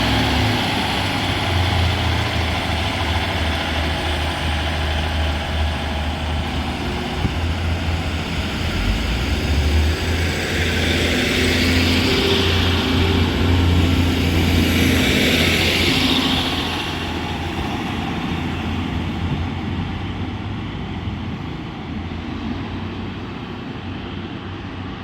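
A Northern Class 156 and Class 150 diesel multiple unit pulling away from the platform, its underfloor diesel engines running with a deep, steady drone. A rushing noise swells twice in the middle, then the sound fades as the train moves off.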